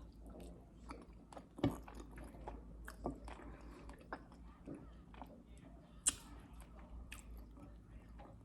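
A person chewing food close to the microphone, with soft wet mouth sounds and small irregular clicks and smacks; a sharper click about six seconds in.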